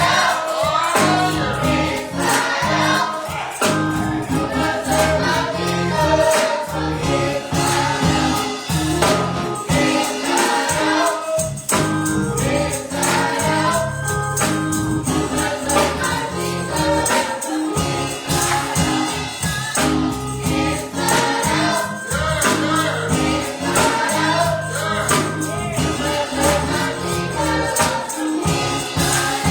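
Gospel choir singing over a band, with bass, drums and tambourine keeping a steady beat.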